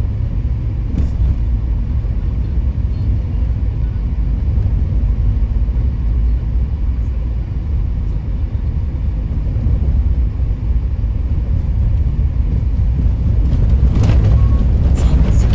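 Steady low rumble of a car driving, heard inside the cabin: engine and tyre noise on a wintry road. About fourteen seconds in, a broader hissing noise swells over it.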